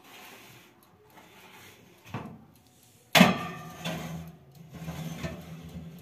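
Household handling sounds: a knock about two seconds in, then a sudden loud clatter about a second later, followed by a steady low hum with smaller knocks.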